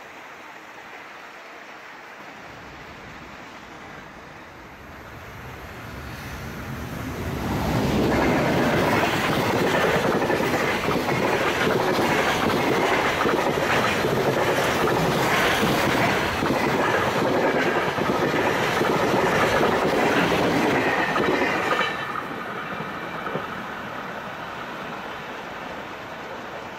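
Freight train passing at speed, its wagons' wheels clattering over the rail joints in a rapid clickety-clack. It builds about five seconds in, is loud for about fifteen seconds, then drops off suddenly as the end of the train goes by.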